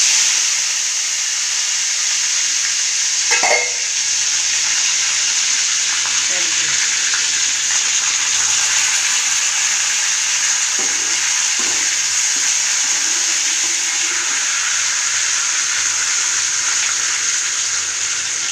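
Food sizzling in hot oil in a pan, a steady hiss that starts suddenly. A brief clatter comes about three and a half seconds in.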